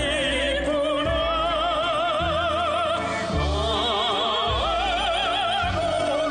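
A song with a singer holding long notes with wide vibrato over an orchestral-style accompaniment whose bass pulses about once a second.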